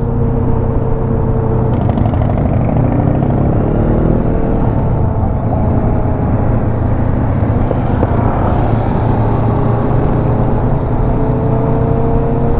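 Motorcycle engine running steadily on the road, its pitch rising between about two and four seconds in as it speeds up.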